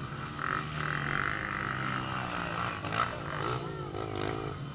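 A steady engine hum, with a person's voice rising over it for about a second near the end.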